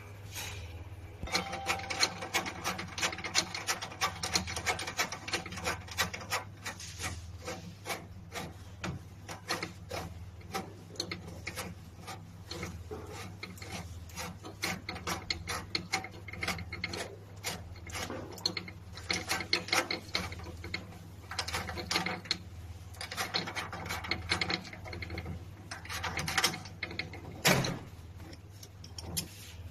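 Hand tools and metal parts being handled during disassembly: irregular scraping, rubbing and clicking, with sharper knocks now and then, over a steady low hum.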